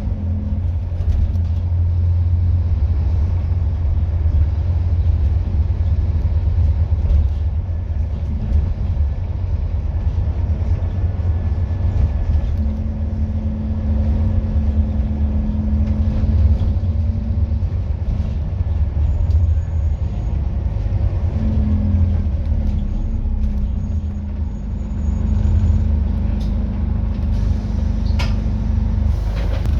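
Scania N230UD double-decker bus running on the road: a steady low engine rumble, its note coming up more strongly for a few seconds at a time as the bus pulls.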